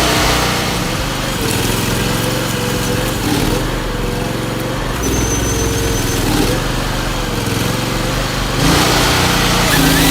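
Engine of a forestry machine running, its speed dipping and rising several times as it works.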